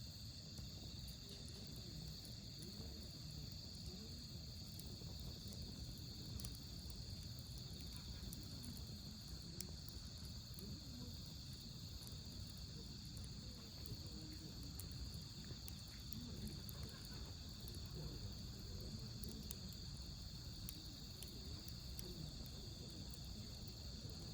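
Autumn night insects chirping steadily in a high, unbroken band, with faint scattered crackles from a wood campfire.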